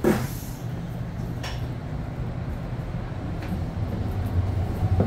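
Interior running noise of a moving Bombardier BiLevel commuter coach: a steady low rumble, with a sharp knock right at the start and a few fainter knocks after it.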